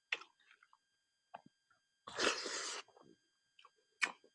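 Close-miked mouth sounds of someone eating silkworm pupae: sharp lip-smack clicks just after the start and near the end, soft ticks in between, and a short burst of breathy noise about two seconds in, the loudest sound.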